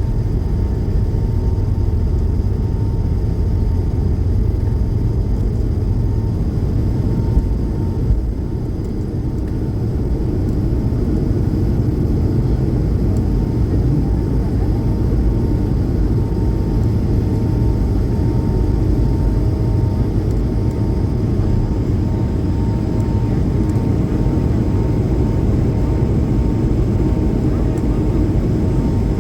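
Airbus A220 cabin noise from the seat: a steady, loud low rumble of the Pratt & Whitney geared turbofan engines and airflow, with a thin steady hum tone above it. The level dips briefly about eight seconds in.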